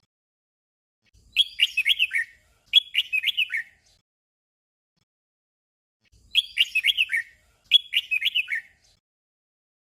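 Red-whiskered bulbul singing a short warbled phrase twice in quick succession, the 'double' song. After a few seconds' pause the same double phrase comes again.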